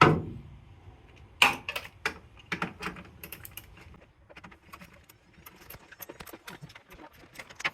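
Small metal hand tools and parts clicking and clattering as they are handled in a car's engine bay: one sharp metallic clank with a short ring at the start, then a quick run of irregular clicks and lighter scattered ticks.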